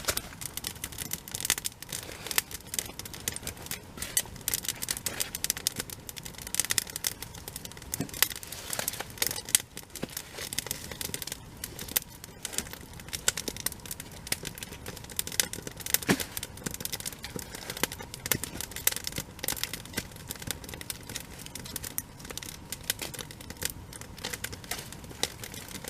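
Wood fire crackling, with dense, irregular snaps and pops.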